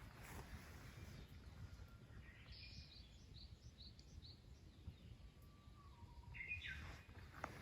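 Faint bird calls over low background rumble: a quick run of about five short high chirps about three seconds in, then another brief call near the end.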